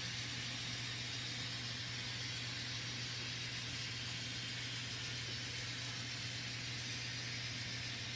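N scale model trains running around the layout: a steady hum with an even hiss over it, without breaks or clicks.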